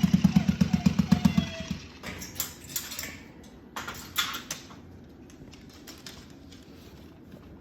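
Small battery-powered vibrating toy buzzing in rapid even pulses, about ten a second, that stop about one and a half seconds in. Scattered light clicks and taps follow.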